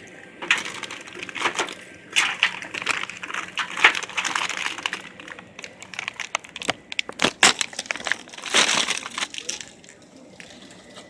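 Crinkling and rustling of plastic packaging, with light knocks and clatters, as store items are picked up and handled. The sound comes in irregular bursts rather than steadily.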